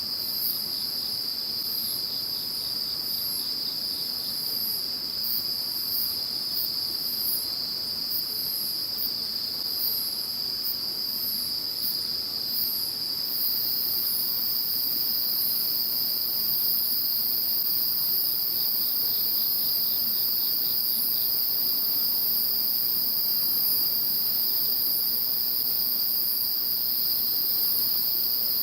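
Chorus of singing insects: a steady high trill, with a still higher chirping over it that turns into a continuous buzz about halfway through.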